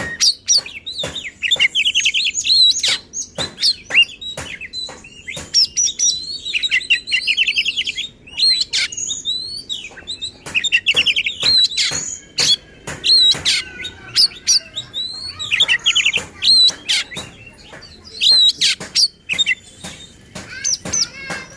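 Oriental magpie-robin (kacer) singing hard and agitated: bursts of fast rattling trills and sweeping whistled notes, broken by many sharp, harsh clicking notes, with short gaps between phrases. This is the excited, aggressive full song that keepers use to provoke other magpie-robins.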